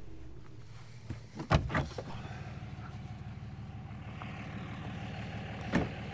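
Steady engine and road noise of a truck driving, with a few sharp knocks about a second and a half in and one more near the end.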